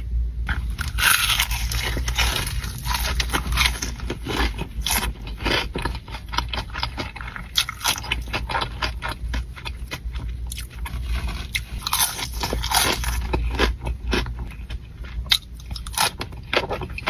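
Close-miked eating: crunchy bites into fried chicken and chewing, a dense run of irregular crackling crunches over a low steady hum.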